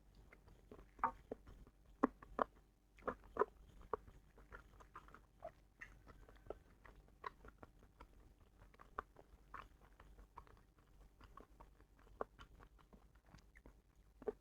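Close-miked chewing, with wet mouth clicks and smacks coming thickly for the first few seconds, then more sparsely.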